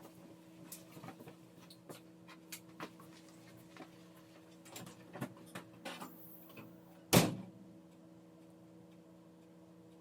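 Scattered light clicks and knocks over a steady low hum, with one loud thump about seven seconds in that dies away quickly.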